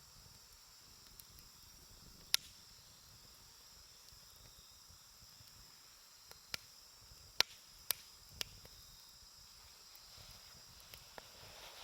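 Wood fire crackling with a handful of sharp pops, the loudest about two seconds in and a cluster a few seconds later, over a steady high chirring of insects.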